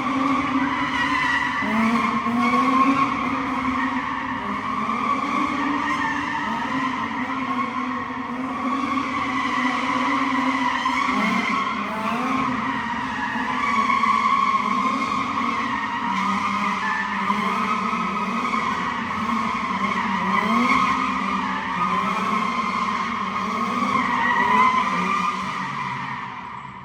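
Car tyres squealing continuously under hard wheelspin, with the car's engine running high underneath. The squeal wavers in pitch throughout, and the whole sound fades out near the end.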